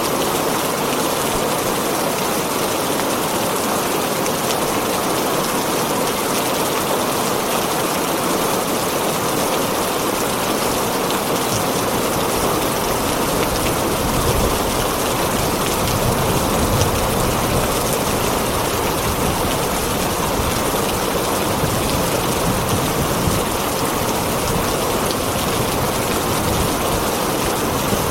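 Heavy rain drumming steadily on a tin roof, with a low rumble building in about halfway through.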